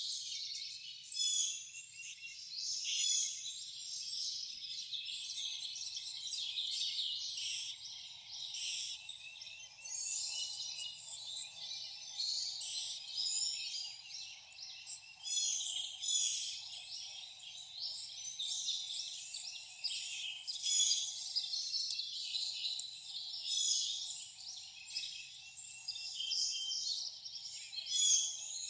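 Wild songbirds calling and singing in a dense, overlapping chorus of chirps and trills, with a faint steady hum underneath from about five seconds in.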